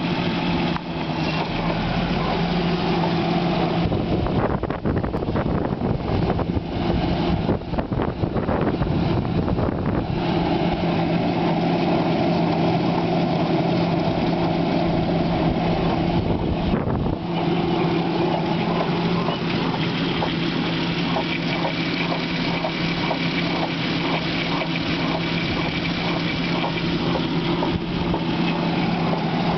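2003 Volkswagen EuroVan's engine idling steadily with the air conditioning on, with a crunching noise ('cruck') that comes when the AC is switched on. The noise is heard as irregular clicks and knocks in the first third and as a run of quick, evenly spaced ticks in the second half.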